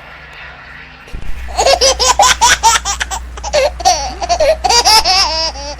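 Loud, hearty human laughter in rapid repeated bursts, starting about a second and a half in, over a low steady hum.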